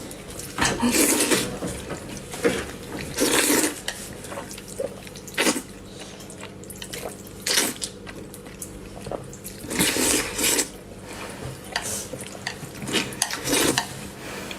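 Close-up eating sounds: wet slurps and chewing in irregular bursts every few seconds, with light clicks of utensils against a bowl.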